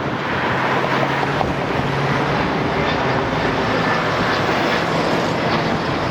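A motor vehicle running close by: a steady low engine hum under a broad rushing noise, with wind on the microphone.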